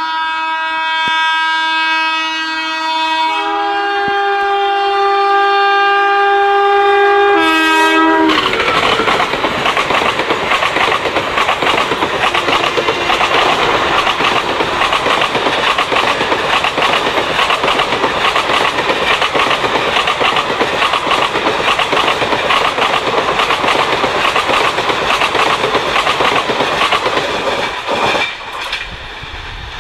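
WCAM-1 electric locomotive's horn sounding a long chord of two notes, which shift about three and a half seconds in, then cutting off about eight seconds in. The express then rushes past with a steady clatter of wheels on the rails, falling away near the end as the last coaches clear.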